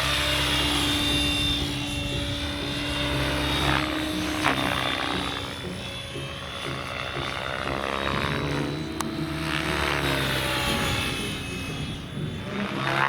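Electric Align T-Rex 700X radio-controlled helicopter flying 3D aerobatics: rotor and motor sound rising and falling in pitch as it manoeuvres.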